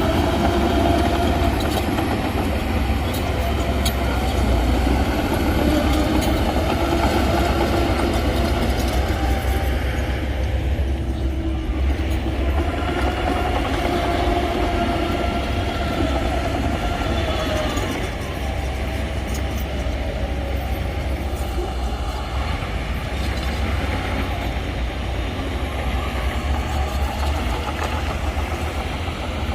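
Shantui DH17C2 crawler bulldozer working: its diesel engine runs steadily under load with a low rumble, and wavering metallic squeals rise and fall over it.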